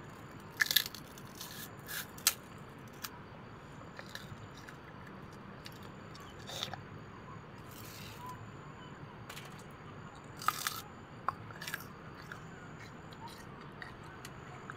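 A person biting and chewing a crunchy snack: a handful of short, sharp crunches at irregular intervals, over a faint steady low hum.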